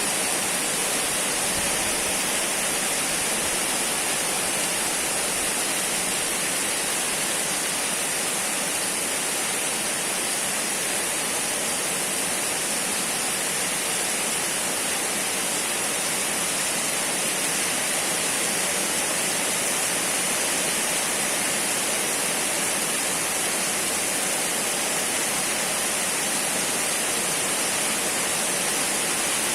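Steady, even rain falling, a continuous hiss with no let-up.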